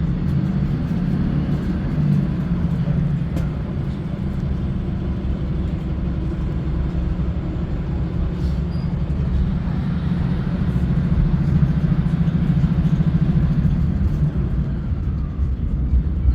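Inside a diesel passenger train under way: a steady low rumble of the engine and wheels on the rails, with occasional light clicks and a faint high whine rising and falling.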